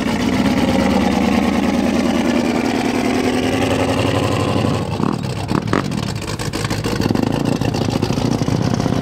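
Engine of a rusted Chevrolet Nova wasteland build running steadily at low speed. About five seconds in it drops back and becomes quieter and less even.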